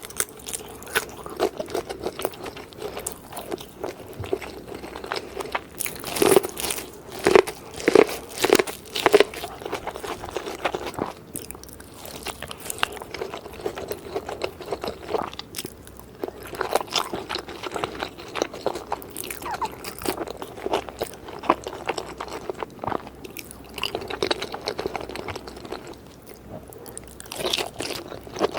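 Close-miked eating: a person biting and chewing crunchy chicken in quick, irregular crisp crunches. The loudest crunches come in a run about six to nine seconds in.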